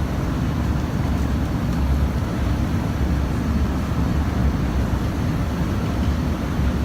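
Steady low rumble of airliner cabin noise in flight: engine and airflow noise heard from inside the cabin.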